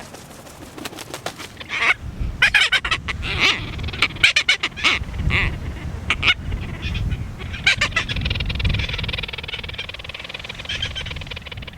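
Tropicbirds at their nesting island giving a series of short, harsh, grating calls in quick succession, then a steadier scratchy chatter near the end.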